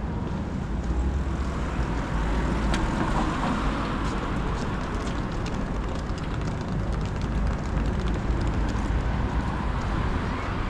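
Steady city street noise of passing road traffic: a continuous low rumble and hiss that keeps going without a break.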